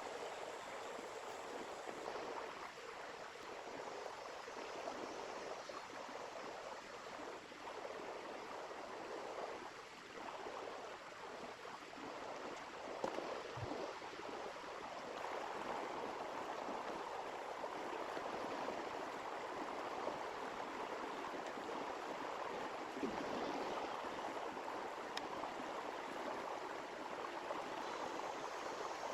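Small river flowing steadily over stones, an even rushing and gurgling.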